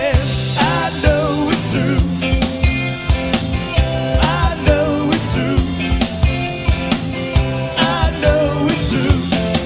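Rock band playing: drum kit keeping a steady beat under bass guitar and guitars, with a wavering melody line above.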